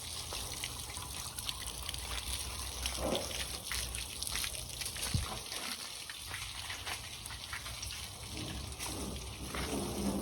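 Water spraying and trickling with a scatter of small splashes, the sound of a boat being washed down.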